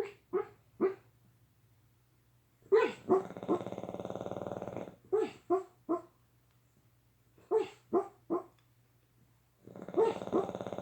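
Sleeping Boston Terrier barking and growling in a dream. Short barks come in quick groups of two or three, and two longer growls come in between, one near the middle and one near the end.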